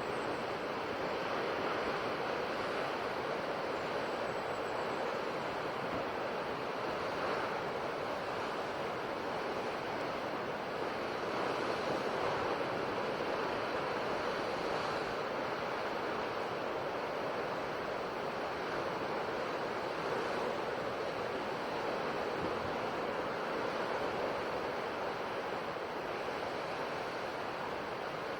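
Ocean waves breaking on a shore, a steady wash of surf that swells and eases gently.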